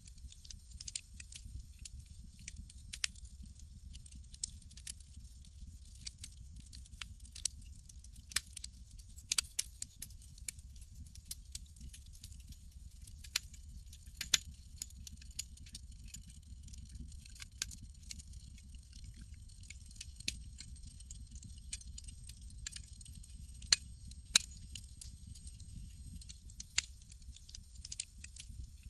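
Campfire crackling: irregular sharp pops and snaps, a few louder ones about a third of the way in and near the end, over a steady low rumble and hiss.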